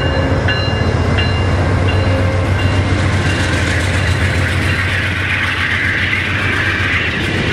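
Amtrak passenger train's diesel locomotive running past close by with a steady low engine drone. A bell dings about every three-quarters of a second and fades out over the first few seconds. Wheel-and-rail rushing noise grows as the locomotive and cars pass near the end.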